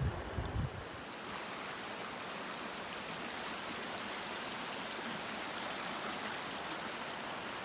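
A river flowing: a steady, even rush of water. There are a few low thumps in the first second.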